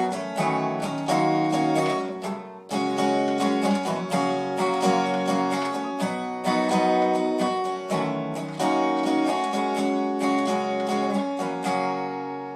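Acoustic guitar strummed in chords, with a short break about two and a half seconds in. Near the end the last chord rings and fades out.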